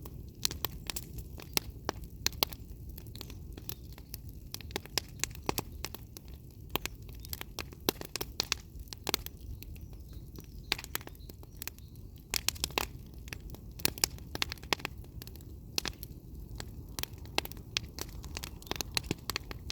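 Wood fire crackling: irregular sharp pops and snaps, many every second, over a low steady rumble.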